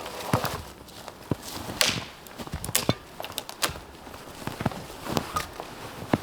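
Footsteps in snow mixed with irregular sharp cracks and snaps of dry wood while firewood is gathered. The loudest cracks fall around two, three and three and a half seconds in.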